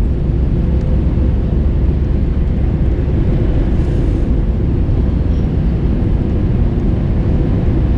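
Steady in-flight noise of an Airbus A321-231: a continuous low rumble of airflow and its IAE V2500 turbofan engines, with a faint steady hum running under it.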